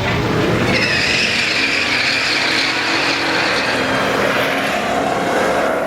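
Drag-racing cars at full throttle, with a steady high squeal over the engine noise from about a second in.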